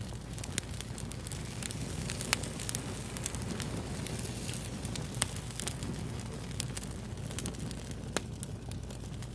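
Fire crackling: irregular sharp pops and snaps, a few louder ones standing out, over a steady low hiss and rumble.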